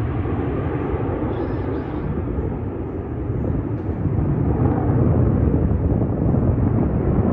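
Jet engine noise of fighter aircraft flying an airshow display, a steady rushing sound that grows louder about four seconds in as the jets come closer.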